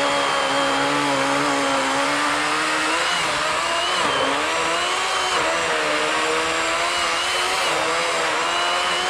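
Worx 40-volt electric chainsaw cutting through a large fallen log, its motor running steadily at high speed with brief dips in pitch as the chain bites under load, one about four seconds in.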